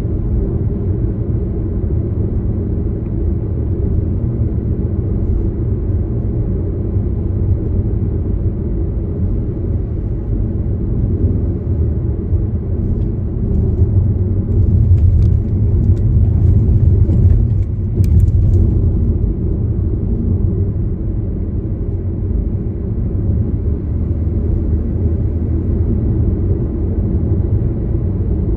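Steady low rumble of a car driving along a road, engine and tyre noise, swelling a little about halfway through, with a few faint ticks.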